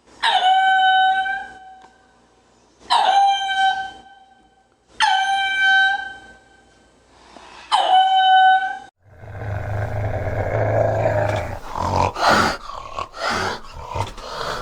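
A peacock gives four loud, wailing calls a few seconds apart. Each call starts with a sharp attack and then holds one steady pitch. From about nine seconds in, a low, rough rumbling animal sound takes over.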